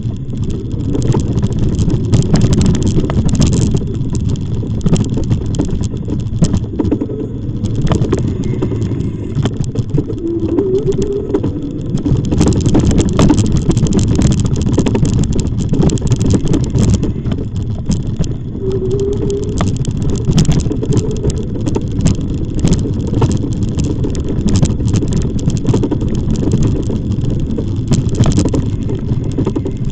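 Wind buffeting the microphone and road rumble while riding an e-bike, with frequent short rattling clicks as the bike goes over the surface.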